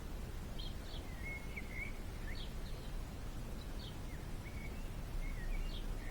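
Small birds chirping: a string of short, high chirps and brief whistled notes at irregular intervals, over a steady low background rumble.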